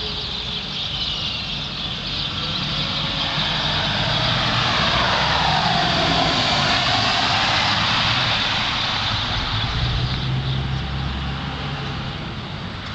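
A motor vehicle drives past. Its noise swells over a few seconds to a peak about six seconds in, then fades, over a steady low engine hum.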